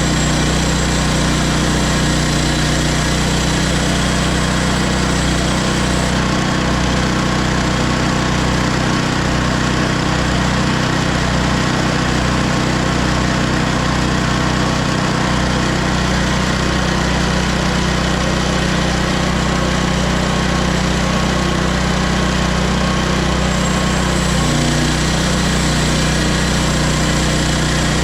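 Hudson HFE30 bandsaw sawmill's gas engine running steadily at an even speed during milling.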